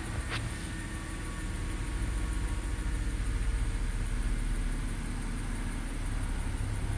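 The 2010 BMW 328i's straight-six engine idling steadily, with a faint click just after the start. The engine has a small misfire on cylinder 6 that shows in its smooth-running data.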